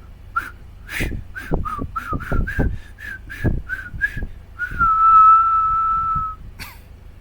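A person whistling a tune: a quick run of about a dozen short notes, then one long held note for nearly two seconds.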